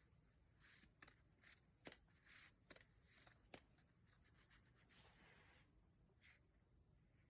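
Faint rustling and brushing, a series of short soft swishes with a few light taps, as from a foxtail grass stalk being swished and batted at in play. The swishes die away a little over four seconds in, with one last swish about six seconds in.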